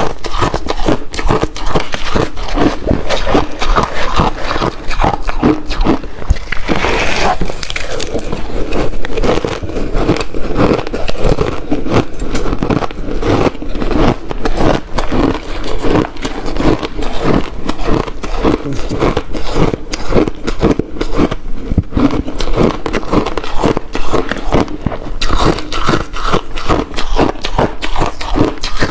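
Ice being bitten and chewed close to the microphone: a continuous run of crisp, irregular crunches, with one sharper, brighter crunch about seven seconds in.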